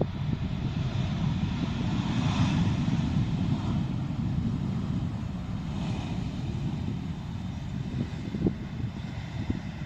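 Landing airliner's engines passing close, a deep rumble that swells to its loudest about two to three seconds in and then slowly fades.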